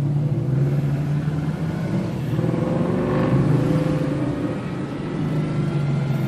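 Car engine running with a steady low drone, and traffic noise swelling to a peak about three seconds in as a vehicle passes close.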